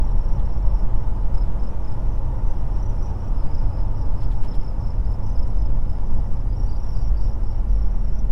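Ram 1500 pickup truck driving, heard from inside the cab: a steady low rumble of engine and road noise. A faint, thin, high whine runs steadily above it.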